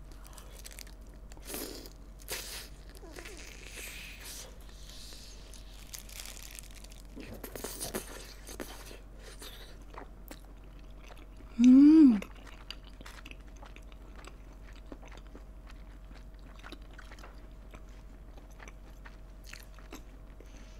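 Close-up chewing and biting of soy-glazed fried chicken, with crunchy bites and wet mouth clicks in the first nine seconds and fainter chewing after. About twelve seconds in comes a short, loud hummed 'mm' from the eater, rising then falling in pitch.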